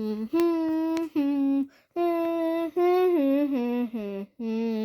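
A child humming a short, wordless tune of held notes that steps down in pitch to a long low note near the end.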